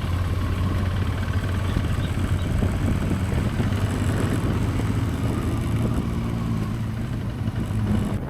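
KTM Adventure motorcycle engine running steadily at cruising speed, a constant low drone, with wind and road noise rushing over the microphone.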